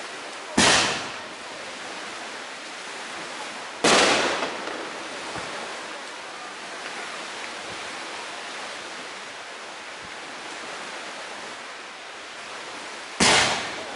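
Three loud firework bangs, two about three seconds apart and a third near the end, each sharp and dying away within about half a second, over a steady background hiss.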